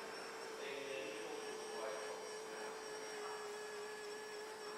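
A steady hum holding a single tone, over faint background noise.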